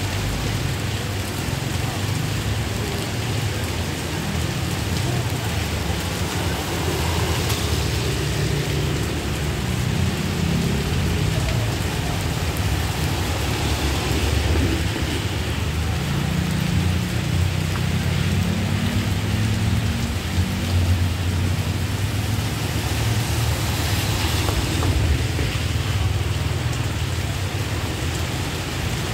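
Steady rain falling on a wet street, with an uneven low rumble underneath it.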